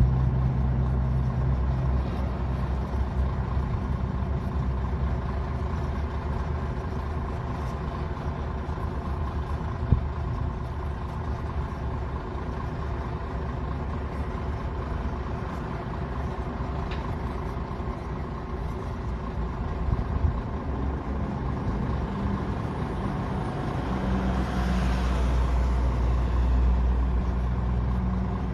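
Heavy equipment diesel engine running steadily, with a single sharp clank about ten seconds in. Near the end the engine gets louder and a hiss rises over it.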